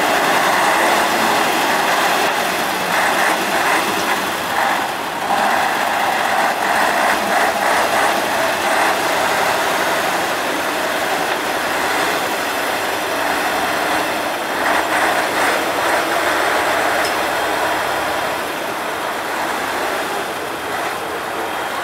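Praga V3S 6x6 truck's diesel engine running hard under load, with a steady mechanical clatter; a little quieter in the last few seconds.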